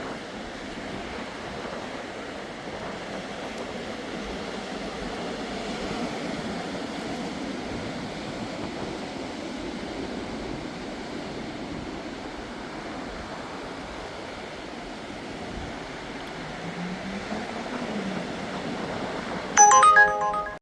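Steady outdoor rushing noise. About a second before the end comes a short, loud ringing tone with several pitches, like a chime or ding.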